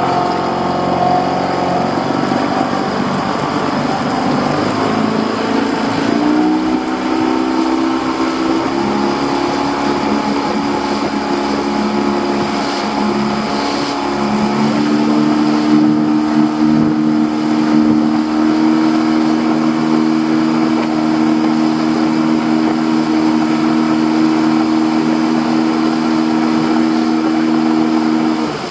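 Boat's outboard motor speeding up in several steps over the first fifteen seconds or so, then running steadily at higher revs.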